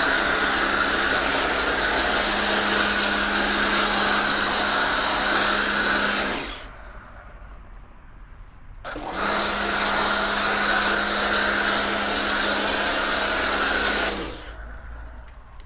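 Kärcher K2 electric pressure washer running and spraying: a steady motor hum under the hiss of the water jet. It runs in two long bursts of about six and five seconds, with a short pause between as the motor stops and starts again with the trigger.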